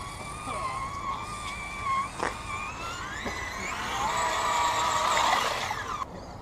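Electric motor and gear drivetrain of a radio-controlled scale trail truck whining, steady at first, then rising in pitch and growing louder as the throttle is opened, with a single knock a little over two seconds in; the whine cuts off suddenly about six seconds in.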